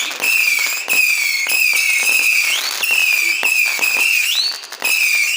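Whistling firework: a shrill whistle that wavers in pitch in a repeating cycle of slightly under a second, with sharp cracks and pops running through it.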